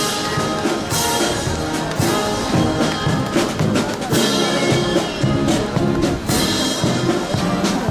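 Marching band playing, brass with drums and cymbals, the beat struck about once a second.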